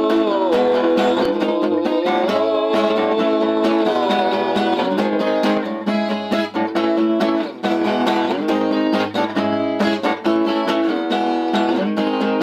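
Acoustic guitar strummed in a fast, steady rhythm, with a melody line gliding over the chords.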